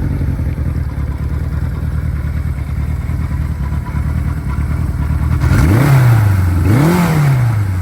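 Kawasaki Z1's air-cooled 903 cc inline-four engine idling steadily, then blipped twice on the throttle about two-thirds of the way through, the second rev higher, each dropping back to idle.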